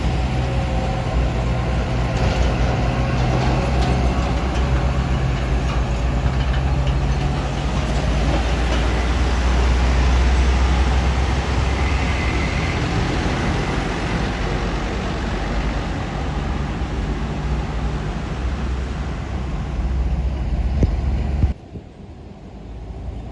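Heavy truck engine running under load, a loud steady low drone with road and wind noise, that drops away suddenly near the end.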